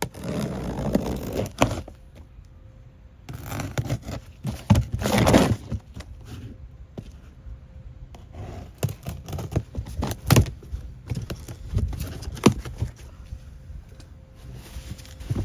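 A parcel being opened by hand: packaging scraping and rustling in irregular bursts, with several sharp knocks as the contents are handled.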